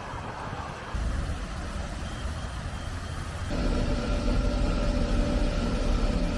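Motor vehicle engine running amid a steady noisy hiss, possibly rain or wet road. The low rumble gets louder, with a steady hum, about three and a half seconds in.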